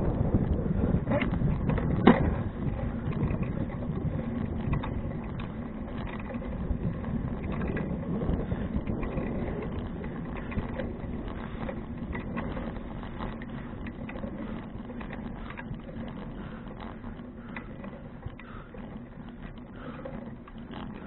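Riding noise from a 2012 Fuji Touring bicycle: wind on the microphone and tyre and road rumble, with small rattles and one sharp knock about two seconds in. The noise grows steadily quieter.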